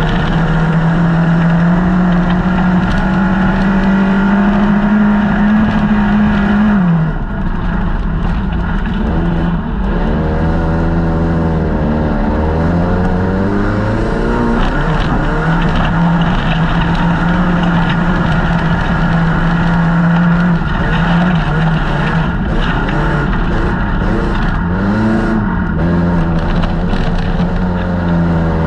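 Folkrace car's engine heard from inside its stripped cabin, running hard under load. The revs drop about seven seconds in as the driver lifts, then rise again several times as the car accelerates out of the corners.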